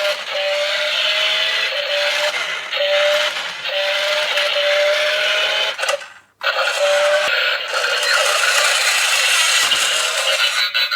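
Tinny electronic music and effects from a transforming toy robot car's small built-in speaker. It breaks off briefly about six seconds in.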